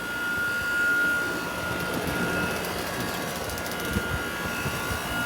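Trane outdoor air-conditioning condensing unit running loudly, its compressor and fan giving a steady rush with a high whine that fades midway and comes back near the end. The loudness is taken as a sign that the unit is low on refrigerant.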